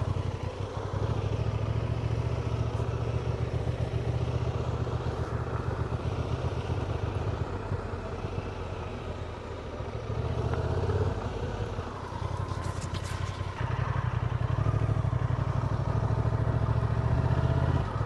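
Honda Transalp motorcycle engine running at low speed while riding, easing off about eight seconds in and picking up again around ten and fourteen seconds in.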